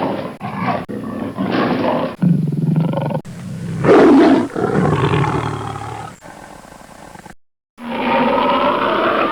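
Lion roaring and growling in a series of abrupt, spliced takes, the loudest roar about four seconds in, with a short silent gap just before the end.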